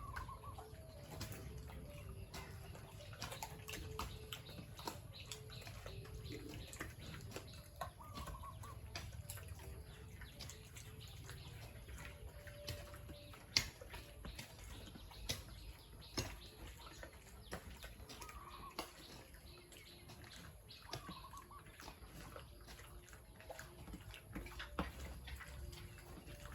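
Faint farmyard sounds: scattered clicks and knocks, with short bird-like calls now and then.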